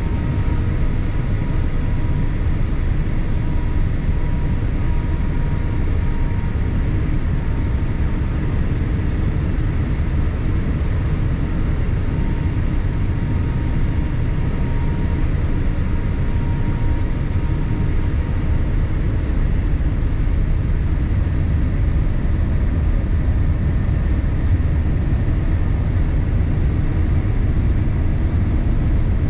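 Steady low cabin drone inside a Boeing 787-8 airliner: engine and airflow noise with no sudden changes, and a faint steady whine that fades about halfway through.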